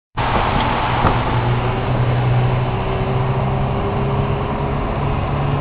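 Toyota Corolla XRS 2ZZ-GE four-cylinder engine pulling under load, with an aftermarket intake, header and exhaust, heard from inside the moving car over heavy road and wind noise. The engine note climbs slowly as the car gathers speed.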